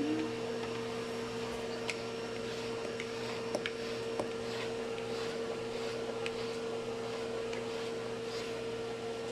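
Pet grooming vacuum running steadily on its lowest power setting, a constant motor hum with a few faint ticks.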